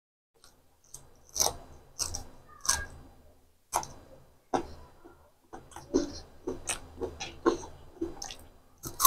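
Close-miked chewing, with sharp crunches from biting and chewing a raw green chilli, about one to two a second, starting about half a second in.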